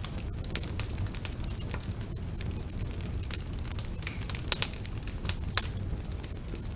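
Wood fire burning in a fireplace, a steady low rumble with irregular sharp pops and crackles, the loudest pair about four and a half seconds in.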